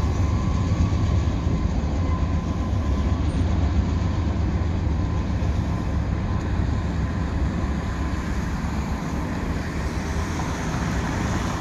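Freight train rolling through a grade crossing, a steady low rumble of railcars that slowly fades as the train moves off.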